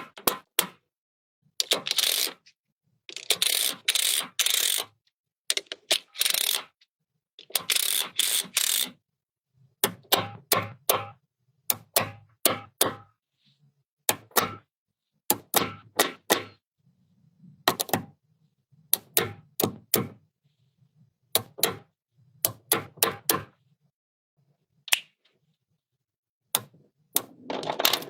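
Small magnetic pieces clicking and clattering against each other in short runs, some single clicks, some rattling for a second or two, with silent gaps between.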